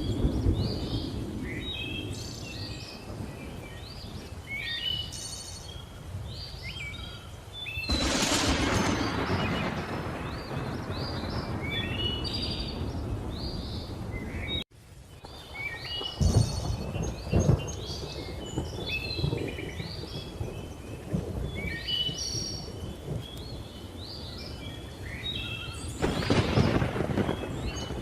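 Thunder rumbling and cracking over a continuous chorus of jungle birds chirping and calling. The loudest rolls of thunder come about eight seconds in, again around sixteen to seventeen seconds, and near the end. The sound cuts out for an instant about halfway through.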